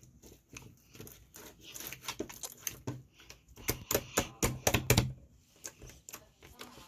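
Slime being squeezed and poked by hand: a run of sticky clicks and pops, densest and loudest about four to five seconds in.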